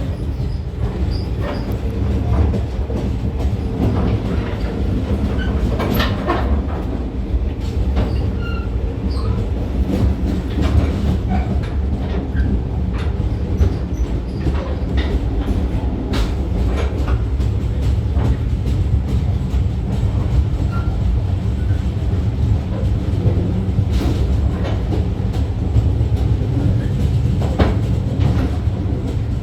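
Train hauled by the steam locomotive A2 986 running on the rails: a steady low rumble with scattered clicks and knocks from the wheels, and a few brief squeaks.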